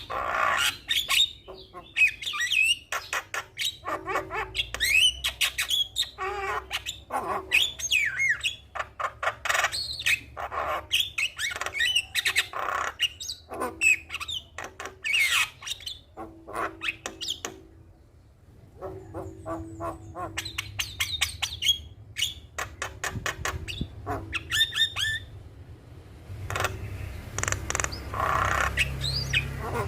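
Javan myna (jalak kebo) singing energetically: a busy run of harsh squawks, chatter and rising whistles, with a brief lull about midway.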